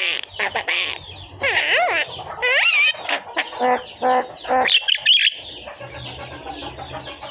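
A pet talking bird whistling and calling. There are two wavering, warbling whistles in the first three seconds, then three short calls in a row and a shrill call about five seconds in, after which it goes quieter.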